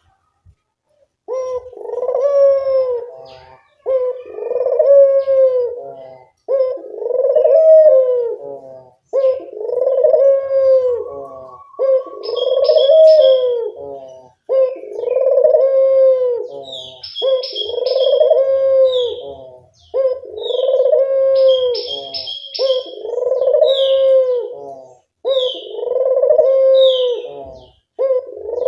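A Barbary dove (puter dove) cooing over and over, one phrase about every two and a half seconds. Small birds chirp high above it.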